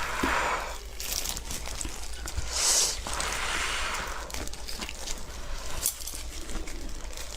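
Close-miked eating sounds: wet chewing and mouth noises, with a few louder noisy bursts near the start and again around the middle.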